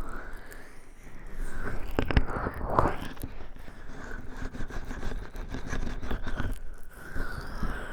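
Oily hands rubbing and sliding over a binaural microphone's ears, with wet smacking and small slick clicks of the oil.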